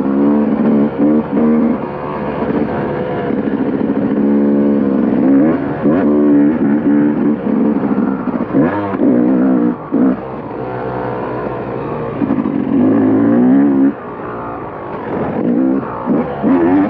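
KTM motocross bike engine under hard riding, revving up and dropping back over and over as the throttle is opened and chopped through gear changes, with several sudden drops where the throttle is closed.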